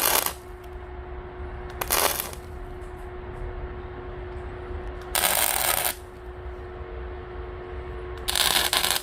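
Electric arc welder laying short tack welds: four brief bursts, each about half a second, a couple of seconds apart, over a steady hum.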